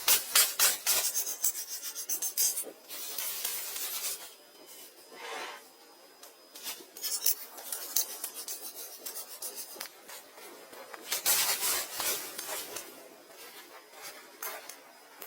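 Hand scraping and rubbing strokes. A quick run of short rasps comes first, then slower, separate swishes with short pauses between them.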